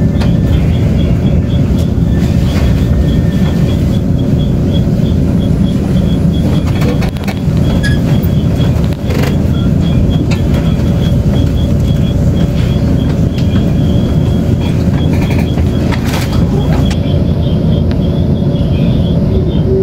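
Tze-Chiang express train running at speed, heard from inside the carriage: a steady, loud rumble with a hum, and a light regular ticking above it.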